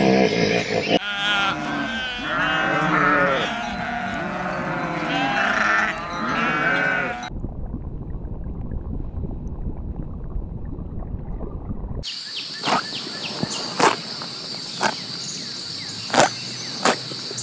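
Sheep bleating, many short wavering calls one after another. After about seven seconds the calls stop and a steady low noise follows, then a steady high-pitched whine with sharp clicks near the end.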